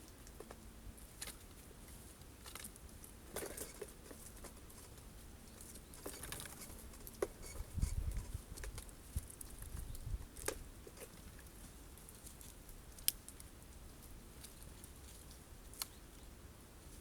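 Jays feeding at a seed feeder: scattered sharp taps and clicks of beaks on seeds and the feeder, a few seconds apart, with a low rumble about halfway through.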